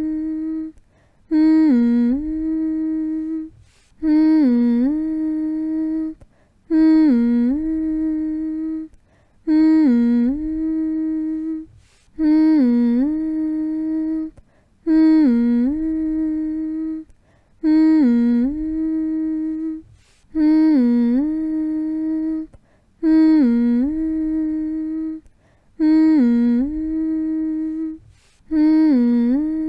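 A person's voice humming the same phrase over and over, about once every two and a half seconds. Each phrase is a quick dip in pitch followed by a long held note, with a short breath-like gap before the next.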